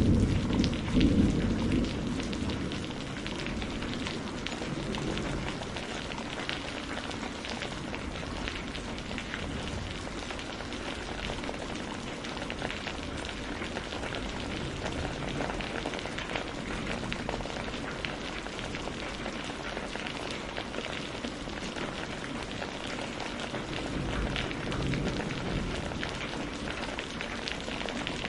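Steady rain with many small, distinct drop hits. A low rumble of thunder dies away over the first two seconds, and a faint low rumble swells again briefly near the end.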